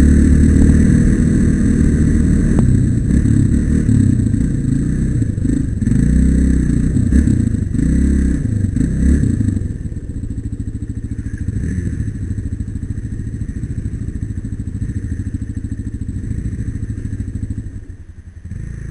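Single-cylinder trail motorcycle engine running under throttle, its pitch rising and falling. About ten seconds in it drops to a steadier, quieter run, close to idle.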